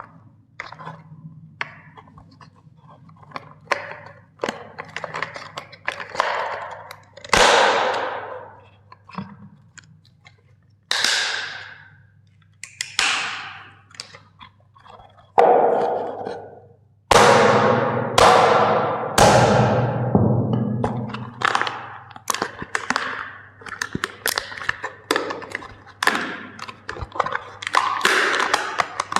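Plastic toys being crushed: a string of sharp cracks and crunches, roughly one every second, each fading away over about a second, over a low steady hum.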